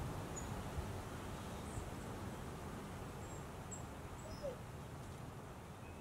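Outdoor backyard ambience: a steady low rumble with faint, very high, short bird chirps scattered through it.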